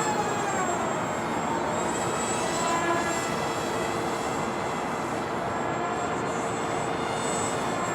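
Twin Emax 1106 8000kv brushless motors of a small RC flying wing whining in flight. Their pitch drops during the first second, then wavers up and down with throttle and passes.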